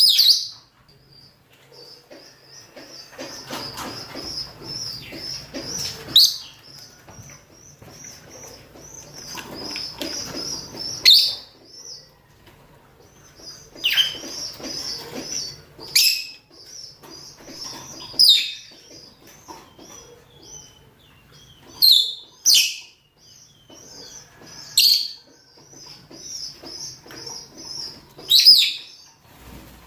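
Rosy-faced and Fischer's lovebirds, males and females, giving mating calls: a continuous high twittering chatter broken every two to three seconds by a loud, sharp shriek, about ten shrieks in all.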